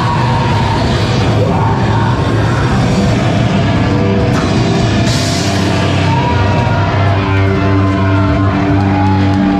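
A live heavy rock band plays loud distorted guitar and drums, with some vocals. Near the end it settles into sustained held notes that stop abruptly.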